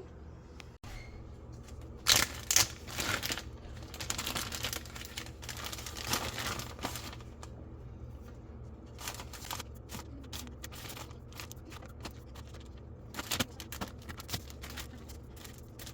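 Kitchen handling sounds: crinkling and rustling with light clicks and clatter, in several short bursts, the loudest about two seconds in, over a steady low hum.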